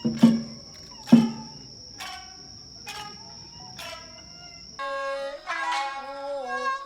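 Shamisen plucking slow, evenly spaced notes, with two heavy taiko drum strokes about a second apart near the start. About two-thirds of the way through, the sound cuts abruptly to a kokyu's bowed, sliding melody over shamisen accompaniment.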